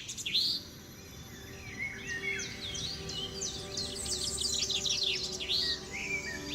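Several birds chirping and twittering in quick rising and falling notes and short trills, sparse for the first couple of seconds and then busy. A faint, steady low musical drone sits underneath.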